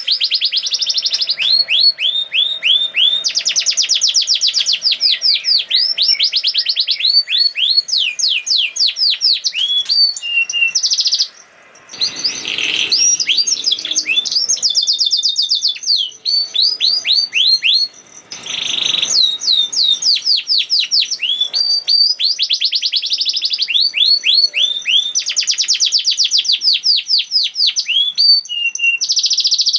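Domestic canary singing fast rolling trills: runs of quickly repeated sweeping notes, about ten a second, broken by a couple of short pauses.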